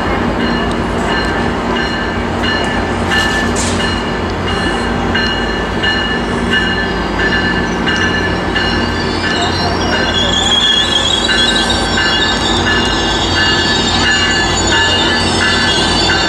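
Metrolink commuter train with its diesel locomotive rolling slowly past, engine running under a steady rumble. High wheel squeal joins in from about ten seconds in.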